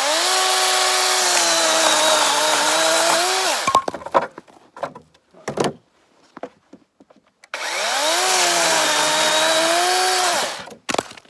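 DeWalt 20V brushless cordless chainsaw cutting through dead birch twice, each cut about three to four seconds long. Each time the motor's whine rises as it spins up, drops in pitch while the chain is in the wood, then rises again and stops as the cut goes through. A few short knocks come between the two cuts.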